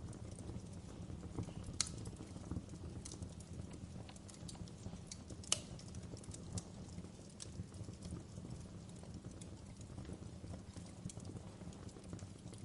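Wood fire crackling in a fireplace: irregular sharp pops and snaps over a steady low rush of flame, with two louder pops about 2 and 5½ seconds in.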